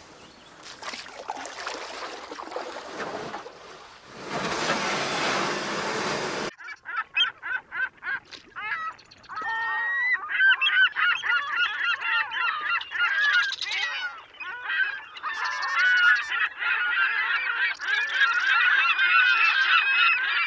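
A flock of birds calling noisily, many overlapping calls that build into a dense, continuous chorus. It begins about six seconds in, after a rushing noise that cuts off abruptly.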